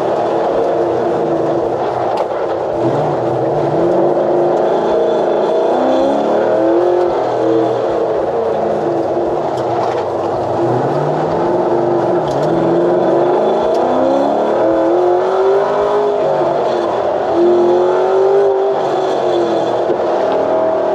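A hot-rod truck's engine revving hard under full throttle on a fast lap, its pitch climbing and dropping over and over as it winds out and shifts near 7,000 rpm.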